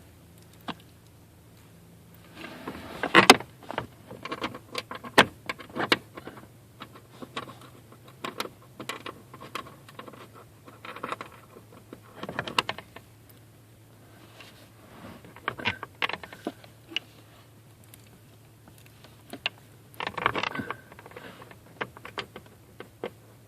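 Irregular clicks, rattles and knocks of hard plastic trim being handled and fitted back into place under a pickup's dashboard, with a few louder knocks, over a faint steady hum.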